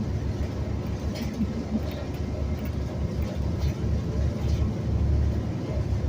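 Steady low rumble of a city transit bus's engine and road noise, heard from inside the bus as it drives along. The rumble swells a little about five seconds in.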